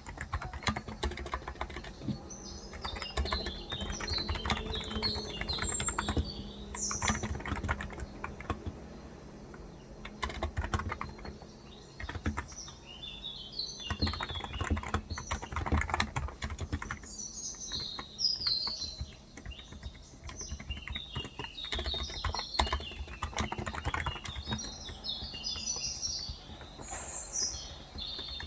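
Steady typing on a Cox Endeavor tenkeyless electro-capacitive keyboard with light 35 g switches. Small birds chirp in several bursts over it.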